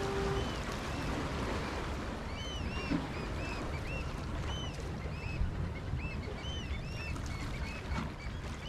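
Birds calling: many short, arched calls in quick succession, often overlapping, over steady wind and waves washing on the jetty rocks.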